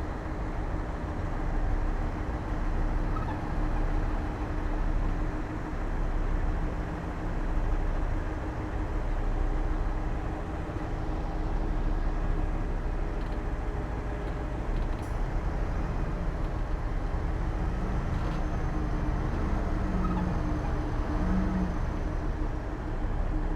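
Heavy diesel engine of earthmoving machinery running steadily, a deep rumble with a steady hum whose loudness rises and falls every couple of seconds.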